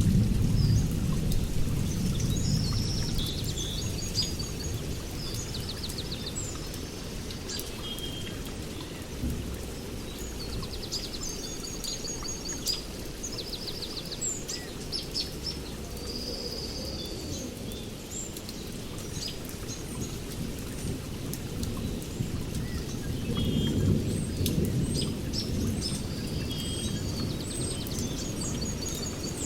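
Several songbirds chirping and trilling over steady rain, with a low rumble of thunder that dies away over the first few seconds and rolls in again about 24 seconds in.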